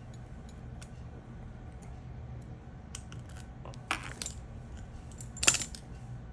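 Light clicks and clinks of small metal fly-tying tools being handled at the vise, a cluster about four seconds in and one sharp, loudest click near the end, over a steady low hum.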